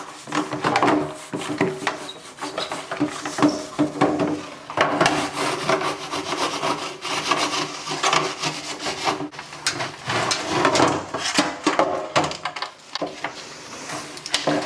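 Fridge shelf tray being scrubbed hard by hand, a steady run of quick back-and-forth rubbing strokes against stubborn grime that is not coming clean.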